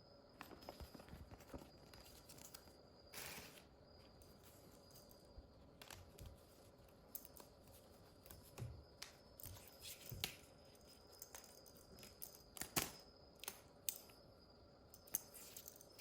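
Quiet handling noises from a mini fan and its packaging: scattered light clicks and taps, with a short rustle about three seconds in.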